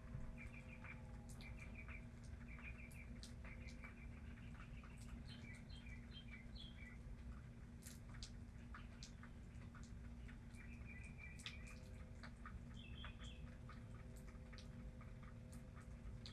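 Water dripping in scattered single drops after rain, with short trains of quick, high chirping calls several times and a faint steady low hum underneath.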